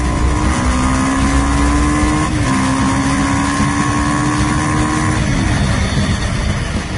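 Motorcycle engine accelerating: its pitch climbs, breaks briefly about two and a half seconds in like a gear change, climbs again, then drops away after about five seconds.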